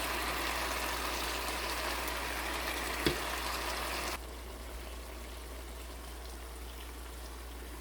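Steady sizzling hiss of a frying pan of stir-fried bitter gourd and dried fish, with a single click about three seconds in; a little after that the sizzle drops to a fainter, even hiss.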